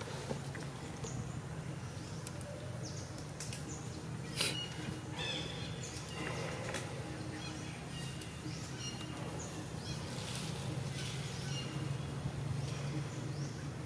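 Outdoor animal calls: scattered short, high-pitched chirps and squeaks over a steady low hum, with one sharp click about four and a half seconds in.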